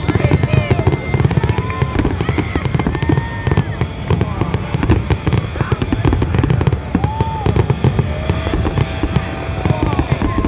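Aerial fireworks display going off in a dense, unbroken barrage: many shell bursts and crackles a second.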